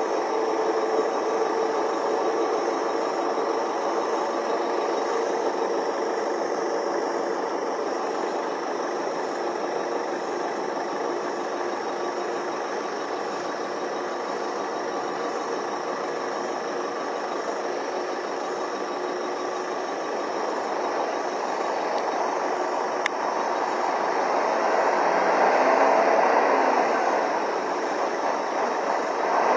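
Truck engine running steadily, swelling louder near the end.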